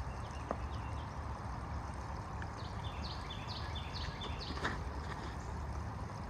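Outdoor ambience with a steady low rumble, typical of wind on the microphone. A songbird sings a run of about six quick repeated phrases, each stepping down in pitch, from about two and a half to five seconds in, and there are a couple of sharp clicks.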